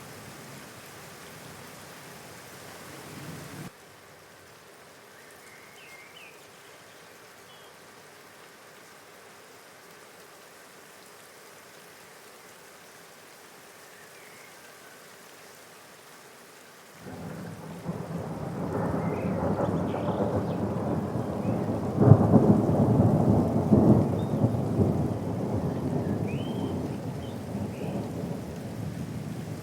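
Steady rain falling, quieter after a sudden drop a few seconds in. About halfway through, a low roll of thunder comes in suddenly, is loudest a few seconds later and slowly fades under the rain.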